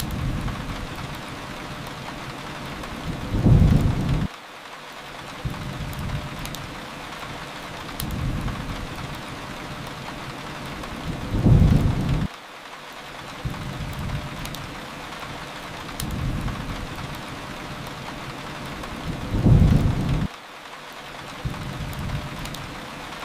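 Steady rain hiss with a low rumble that swells up and cuts off suddenly about every eight seconds, three times, in an even looped pattern; faint sharp crackles from a fireplace are scattered through it.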